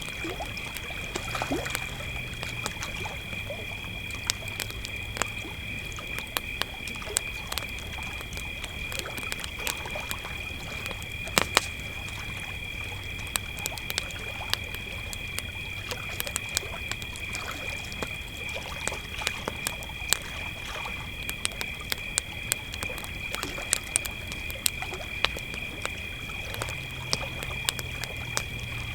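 Campfire crackling with irregular sharp pops, a couple of louder ones near the middle, over crickets chirring in a steady high, unbroken trill. Water laps softly underneath.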